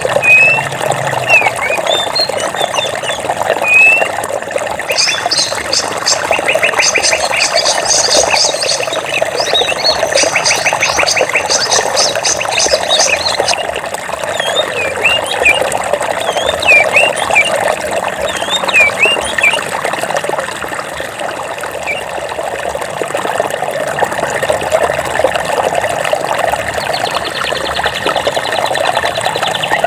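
Water flowing steadily in a forest stream, with birds chirping over it in short rising and falling calls. A rapid pulsing trill runs from about five to thirteen seconds in.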